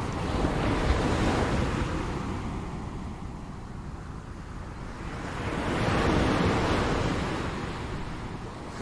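Ocean waves breaking and washing on the shore in a steady rush, with one wave swelling about a second in, a lull in the middle, and a second wave building near the end.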